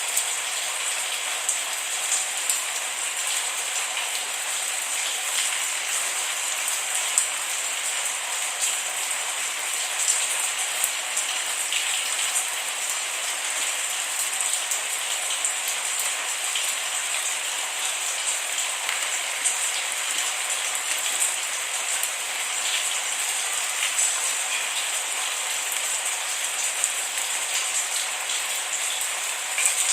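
Steady rain falling, a constant hiss with many small sharp drop ticks scattered through it and no thunder.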